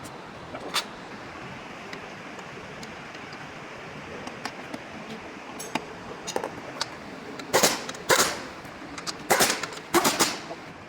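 Metal-on-metal work noise: scattered clicks, then several loud sharp clanks and short rattling bursts in the second half, over a steady background hiss.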